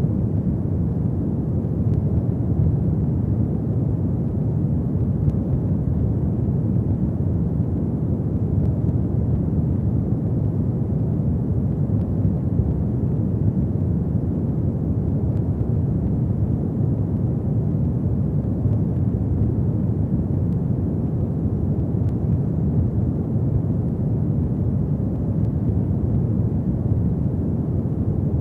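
Fire burning in a fireplace, a steady low rumble with no distinct pops.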